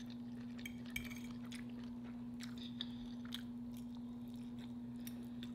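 A person chewing food into a close microphone: quiet chewing with scattered soft mouth clicks. A steady low hum runs underneath.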